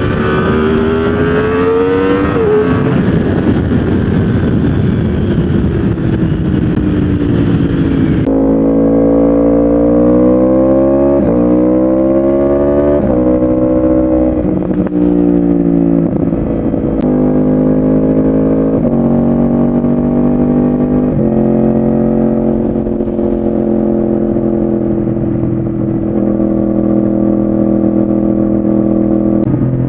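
Yamaha R1 inline-four on a full exhaust system, running loud under acceleration. The note climbs and then drops sharply, again and again, as it shifts up through the gears. About eight seconds in, the sound changes to a duller recording.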